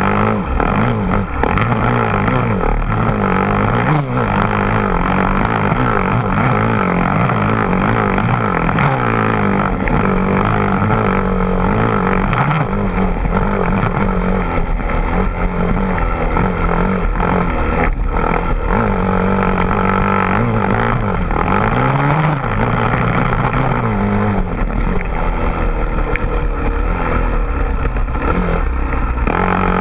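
A car engine running loudly and continuously, its pitch rising and falling again and again as the revs change.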